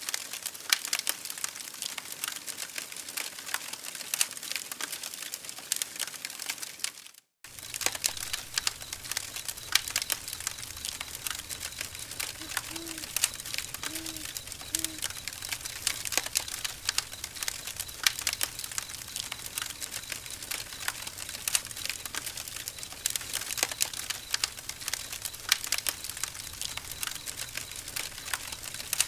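Campfire crackling: irregular sharp pops and snaps of burning wood over a steady hiss. The sound drops out for a split second about seven seconds in. Three faint short low notes sound about halfway through.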